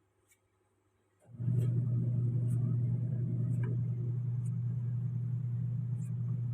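An electric appliance hum switches on abruptly about a second in and then runs steadily at one low pitch.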